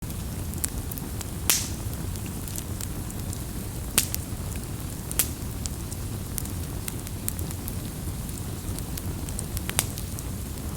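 Campfire burning with a steady low rumble and dense small crackles, broken by four sharp louder pops, the loudest about four seconds in.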